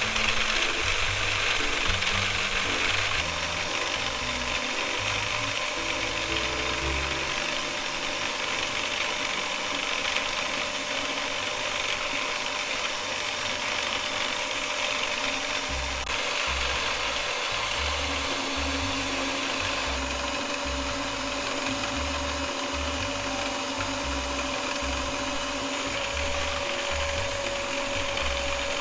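Electric hand mixer running steadily at speed, whipping egg whites for cloud bread, with light background music.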